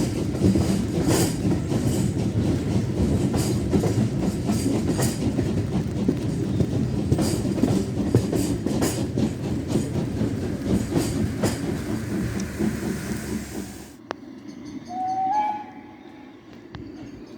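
Train running past with a heavy rumble, its wheels clicking over rail joints. The sound cuts off suddenly about fourteen seconds in, leaving a much quieter background with a brief short tone.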